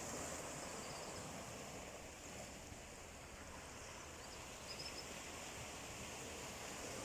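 Sea waves washing on the shore in a steady rush of surf, easing a little a couple of seconds in and building again.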